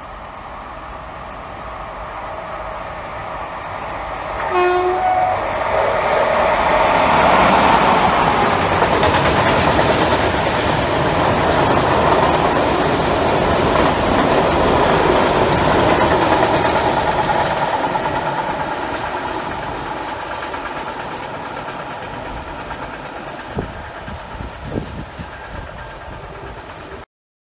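A freight train of tank wagons running through a station: a short horn blast about five seconds in, then the wagons' rumble and clickety-clack on the rails, growing loud as they pass and fading as the train moves away.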